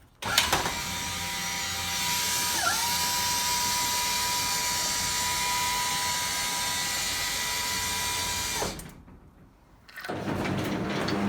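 A small electric motor running with a steady high whine and hiss, dipping in pitch for a moment about two and a half seconds in as if briefly loaded, then cutting off abruptly.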